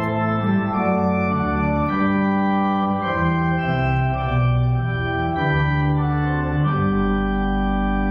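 Church organ playing slow sustained chords that change about once a second, with a deep bass note coming in near the end and held.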